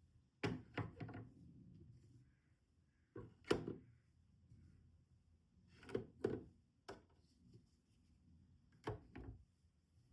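Scattered light knocks and clicks from handling things at a sewing table, in about five short clusters, a couple of seconds apart.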